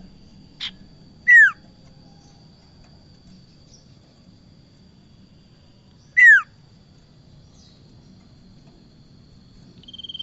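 Prenjak (prinia) calls: two short, sharp whistled notes sliding steeply down in pitch, about five seconds apart, over a faint steady high tone.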